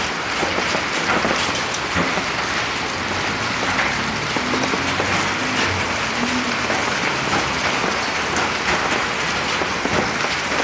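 Hail shower coming down hard: a steady dense hiss of rain with many sharp ticks of hailstones striking surfaces.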